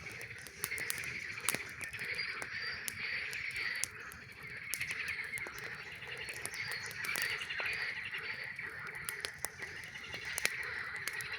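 A chorus of frogs calling steadily in a dense, pulsing trill, over a campfire crackling with sharp, irregular pops.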